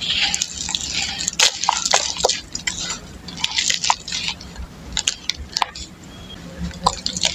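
Dry red dirt clods being crumbled, giving irregular crisp crunches and sharp crackles in clusters, with brief pauses between them.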